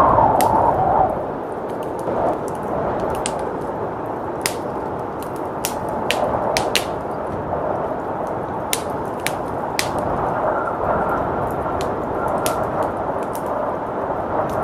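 Wood fire crackling with sharp pops scattered throughout, over a steady blizzard wind. A gust swells at the start and eases about a second in.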